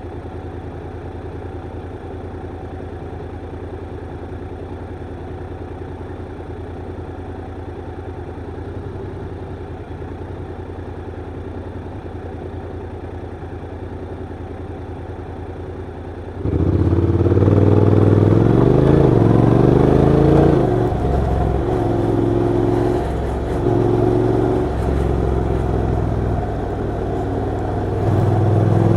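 Honda NC750X DCT motorcycle's parallel-twin engine idling steadily, then, about sixteen seconds in, pulling away and accelerating hard, its pitch climbing and dropping back in steps through the gear changes.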